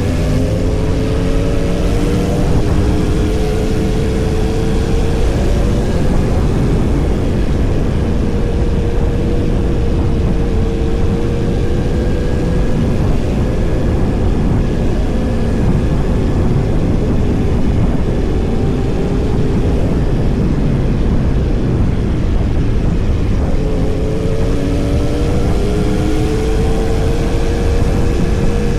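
Yamaha R1's inline-four engine running under way, rising in pitch as it pulls up through the revs at the start and again about three-quarters of the way through, with a steady rushing noise throughout.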